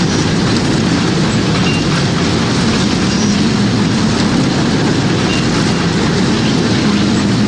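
Tornado sound effect: a loud, steady, low rumble of wind that sounds like a passing freight train.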